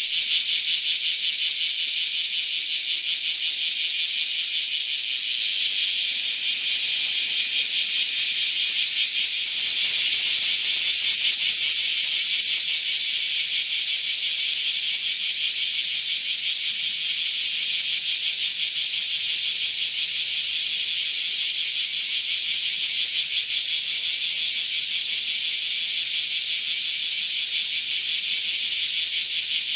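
Cicada calling: a steady, unbroken high buzz of very fast pulses.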